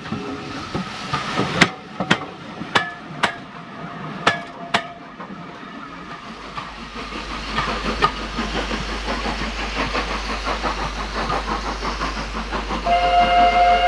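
Steam train on a heritage railway: a string of sharp clanks for the first few seconds, then a steady rushing sound as it runs, and a steam whistle blowing one held chord in the last second.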